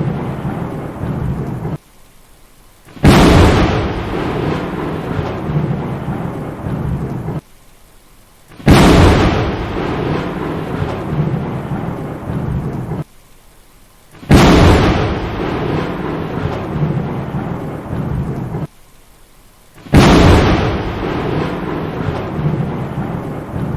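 Thunder with steady rain: a sudden loud clap settling into a rumbling, hissing downpour, repeating four times at even intervals of about five and a half seconds. Each stretch cuts off abruptly into a second or so of near quiet before the next clap.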